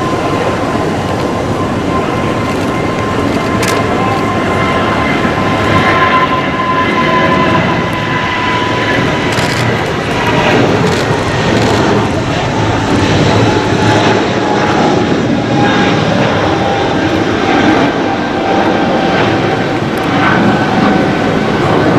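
Jet airliner engines, a loud steady rush with a whine that slowly falls in pitch.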